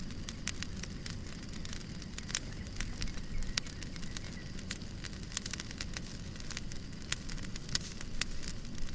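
Fireplace fire crackling: frequent irregular sharp pops and snaps over a low steady rumble.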